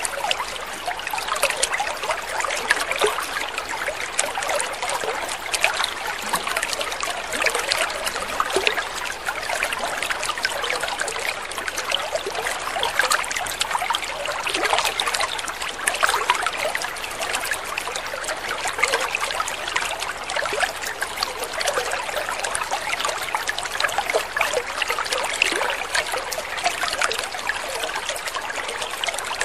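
Water trickling and splashing in a steady, unbroken babble, dense with small splashes.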